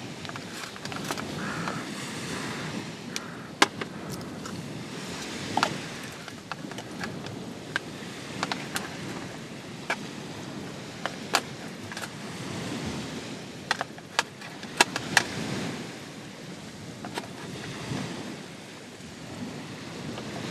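Steady surf and wind noise with about a dozen sharp clicks and taps scattered through it, the loudest near the middle.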